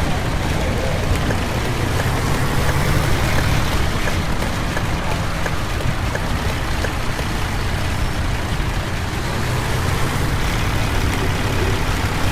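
School bus engine running as the bus drives through heavy rain, under a steady hiss of rain and tyre spray.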